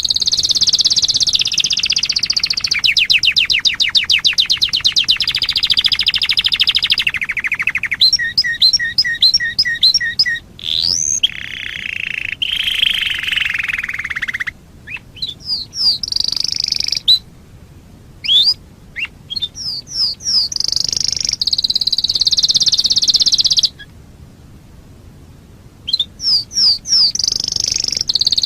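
Domestic canary singing a long, varied song: rapid rolling trills, quick runs of repeated chirps and short rising whistles, broken by two brief pauses.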